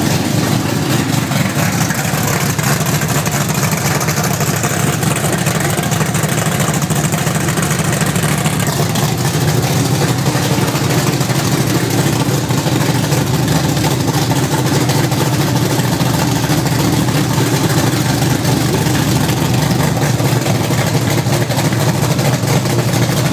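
A 1970 Dodge Dart's 360 cubic-inch small-block V8, with a Hughes cam and headers, running steadily at idle on its first start-up.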